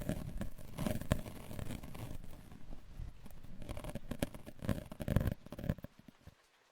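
Close-miked rustling and crackling handling sounds, irregular and uneven, that stop abruptly near the end.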